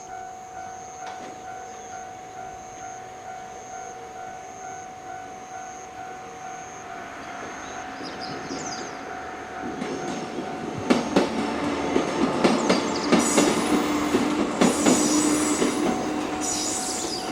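Level-crossing warning bell ringing steadily at about two strikes a second while a JR 103 series electric train approaches and passes: its noise builds from about eight seconds in, with wheels clicking over rail joints, loudest from about eleven to sixteen seconds before fading.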